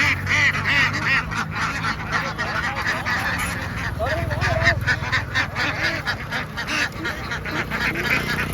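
A large flock of ducks quacking all at once, a dense and continuous clamour of many overlapping calls.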